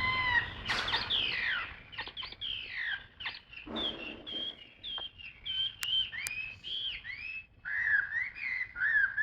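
A caged songbird singing: a quick run of short, clear whistled notes, many sliding down in pitch, delivered in phrases with short pauses between.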